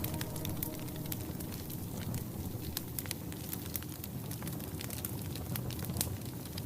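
Wood fire in a fireplace crackling, with frequent sharp, irregular pops and snaps over a steady hiss.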